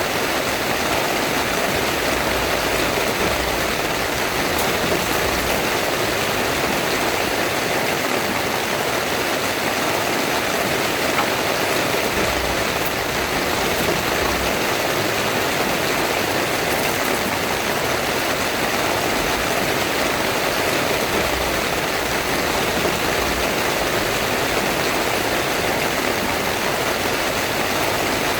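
Heavy rain pouring steadily, an unbroken dense hiss.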